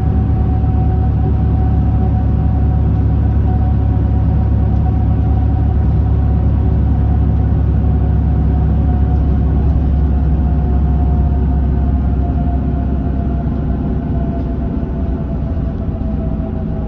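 Hino Blue Ribbon city bus's diesel engine and drivetrain heard from inside the cabin while driving: a steady heavy rumble with a thin whine over it. The whine slowly falls in pitch and the sound eases off over the last few seconds, as the bus slows.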